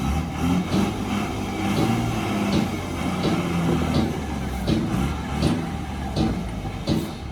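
Tata LPT 3118 heavy truck's diesel engine running steadily, with short clicks and rattles scattered throughout.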